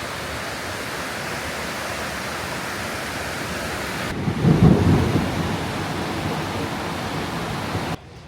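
Steady downpour of heavy rain with a low rumble of thunder about halfway through, the loudest moment. The sound cuts off abruptly near the end.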